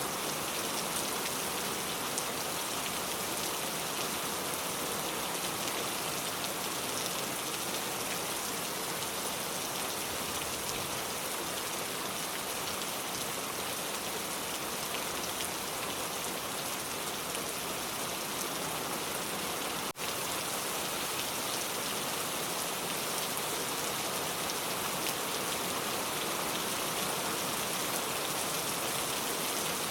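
Steady rain falling: an even hiss with faint scattered drop patter. There is one brief dropout about two-thirds of the way through.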